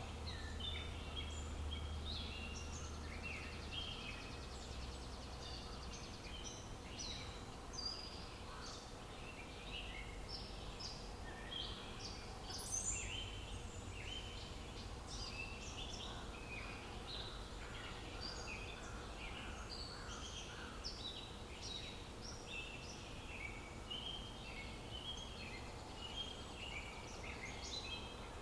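Several birds chirping and trilling, dense short calls overlapping throughout, over a steady low outdoor background rumble.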